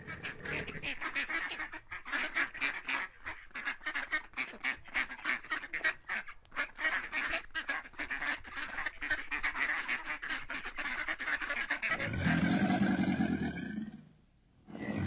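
Ducks quacking in a rapid, busy chorus, call after call with hardly a break. Near the end it gives way to a different, deeper animal call, heard twice with a short pause between.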